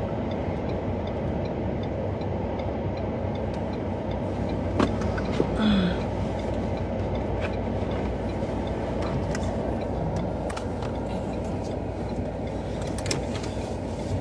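Motor vehicle running steadily, a constant low rumble, with a short knock about five seconds in.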